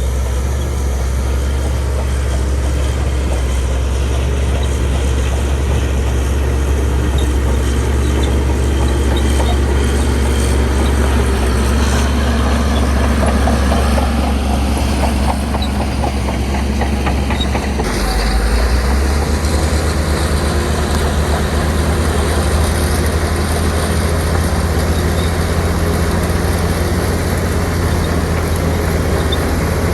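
Heavy diesel engine of earthmoving machinery running steadily, with a light metallic clatter between about 12 and 17 seconds. About 18 seconds in, the engine's drone changes pitch.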